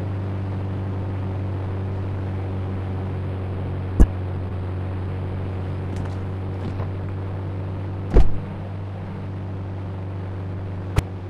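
A steady low engine hum, broken by a sharp click about four seconds in, a louder knock around eight seconds, and another click near the end.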